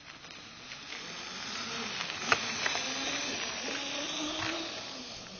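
Small motorcycle engine running as it passes by, growing louder over the first two seconds and fading near the end, with a couple of sharp clicks in the middle.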